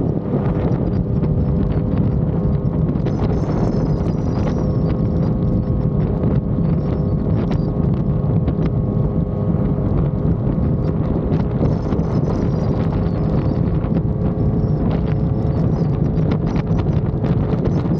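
Yamaha XSR900's inline three-cylinder engine running at a steady speed while riding, with wind buffeting the microphone and scattered light ticks.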